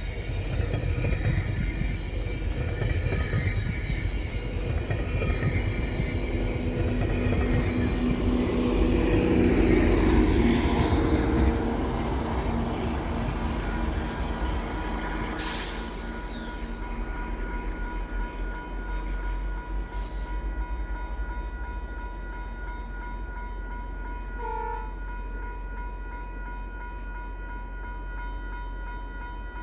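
GO Transit diesel commuter train passing: a heavy rumble of locomotive and wheels on the rails that builds to its loudest about ten seconds in, then fades away. The horn sounds around the loudest part, an odd-sounding, really bad, awful horn.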